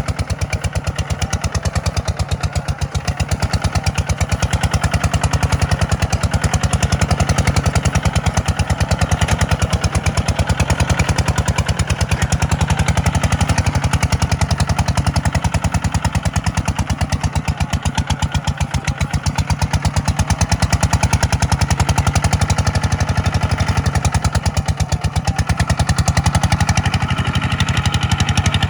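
Farm tractor's diesel engine running steadily while pulling a plough, with a fast even beat of firing pulses and small dips in level every several seconds.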